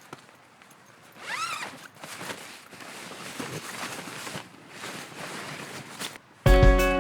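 Rustling, scraping handling noises, with a short pitched call that rises and falls about a second and a half in. Music starts abruptly near the end.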